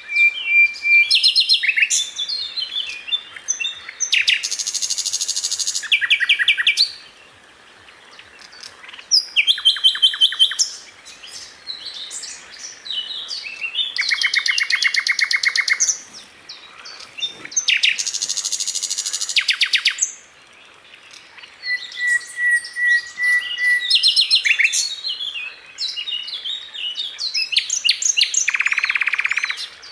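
Sikatan Londo flycatcher singing a varied, fast song. Phrases of rapid, evenly pulsed trills alternate with clusters of short high chirps and a couple of held whistled notes, with brief pauses between phrases.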